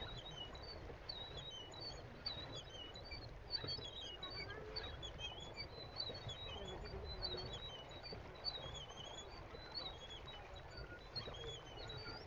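Small birds chirping, many short calls overlapping throughout, over a steady low rumble.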